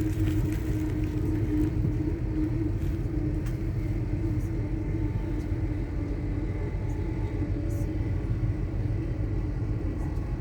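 Steady running rumble of an LNER Azuma high-speed train heard from inside the passenger carriage, with a constant low hum.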